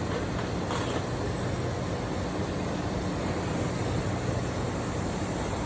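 Steady machinery noise: a low, even hum under a constant hiss, with no change in pace.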